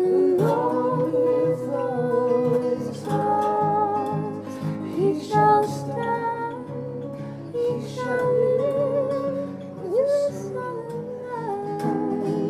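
Song with sung vocals holding long, wavering notes over acoustic guitar chords, from a duet demo.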